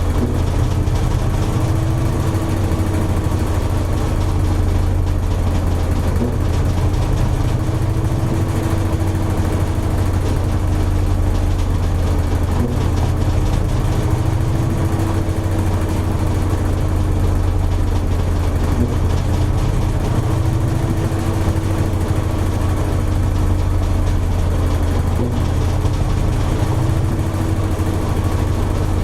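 Toshiba AW-42SEE4 top-loading washing machine running steadily, most likely in its final spin, with a low motor hum and a faint, slightly wavering whine.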